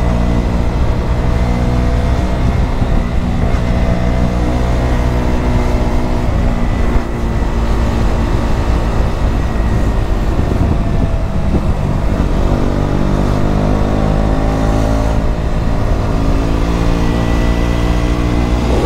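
KTM Duke 125's single-cylinder four-stroke engine running through a Mivv GP Pro exhaust, heard from on board at steady cruising speed. The note holds steady, dips briefly about seven seconds in, and rises in pitch about twelve seconds in before levelling off.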